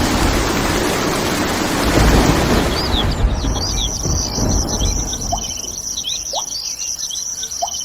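A loud rushing noise for about three seconds, then many quick bird chirps over a steady high-pitched tone.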